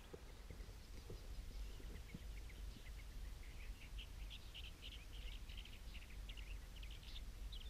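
Small birds chirping in rapid short calls, sparse at first and busier from about halfway through, over a low steady rumble.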